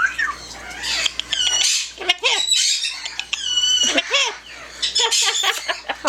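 Yellow-naped Amazon parrot vocalizing: a string of squawks and whistled calls, some held on one pitch and some arching up and down.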